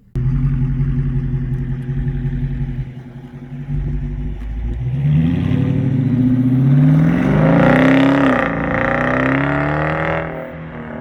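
V8 engine with its muffler deleted, idling loudly and then revved, the pitch climbing over a few seconds before dropping back.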